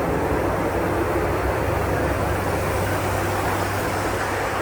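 Steady flight-deck noise of a Boeing 747-400 in flight: an even rush of air with a low, steady hum beneath it.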